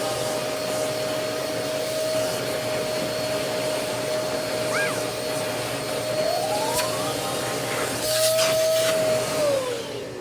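Hoover Port-A-Power portable vacuum running steadily with its motor whine holding one pitch, working again after the cord and switch repair. Near the end it is switched off and winds down, the whine falling in pitch.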